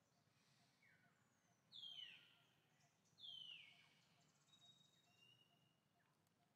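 Faint bird calls: two downward-sweeping calls about two and three and a half seconds in, then a few short, higher steady notes.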